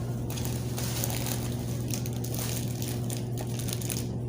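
Chewing hard, stale tamees flatbread, with scattered crunching and mouth noises over a steady low hum.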